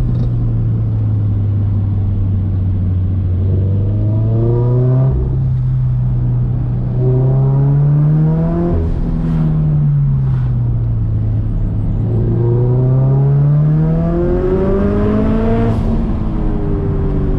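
Turbocharged Scion FR-S's 2.0-litre flat-four engine pulling in second gear, its pitch climbing and falling in turn. It eases off at first, revs up for about six seconds, drops back, climbs again and drops once more near the end, with short faint hisses at the top of the climbs.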